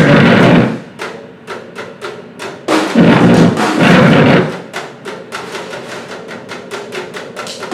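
Live noise-grind improvisation: loud, harsh blasts of noise come three times, with rapid drum hits between them that quicken to a fast roll in the second half.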